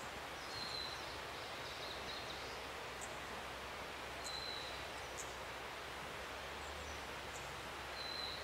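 Forest ambience: a steady outdoor hiss with a few short, high bird chirps and whistles scattered through it.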